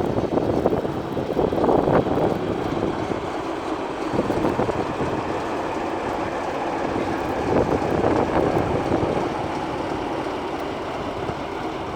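A train running along the tracks: a steady rumbling rail noise that swells near the start and again about eight seconds in, with a faint steady hum coming through near the end.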